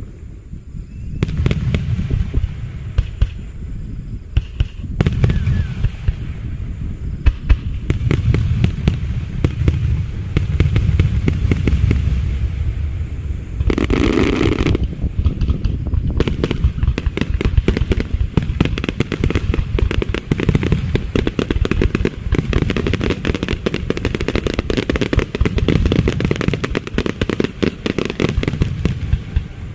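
Aerial fireworks going off in a dense, continuous barrage of booms and crackling reports that starts about a second in and keeps up without a break.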